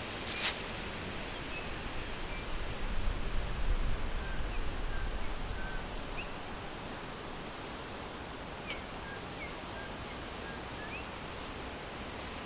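Forest ambience: a steady hiss with faint, scattered short bird chirps. There is a sharp click about half a second in and a low rumble for a few seconds early in the stretch.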